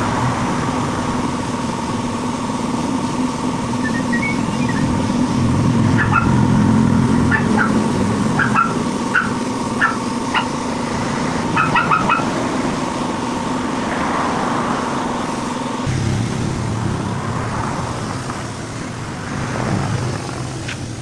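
A motor vehicle engine running steadily with a constant hum. A run of short, high chirps comes and goes midway, and the hum shifts about three-quarters of the way through.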